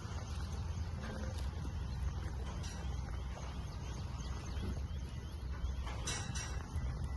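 Outdoor background noise: a steady low rumble with faint chirps, and a brief rustle about six seconds in.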